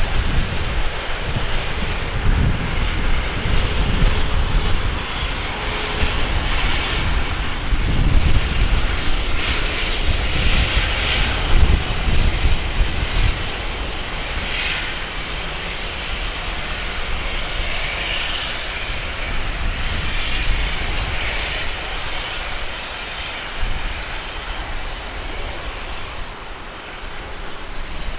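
Jet engine noise from an Airbus A350-900's Rolls-Royce Trent XWB engines as the airliner passes on landing: a heavy, loud rumble for about the first half that then fades steadily.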